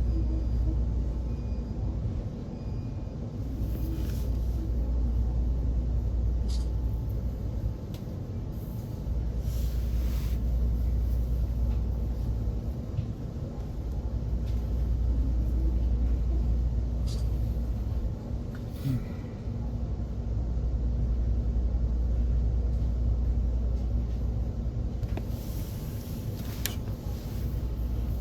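Train running, a steady low rumble heard from inside the passenger carriage, swelling and easing a little, with a few brief clicks and short hisses along the way.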